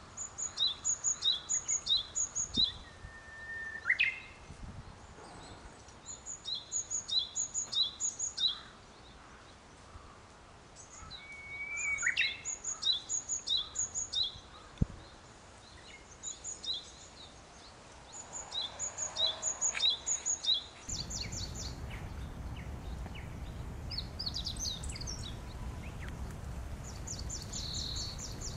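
Small songbirds singing outdoors: one bird repeats a bright, high two-note phrase in short bouts of several seconds, with an occasional lower upward-sliding call between. About 21 seconds in the sound changes to a steadier background rumble with scattered chips, and a fast high trill near the end.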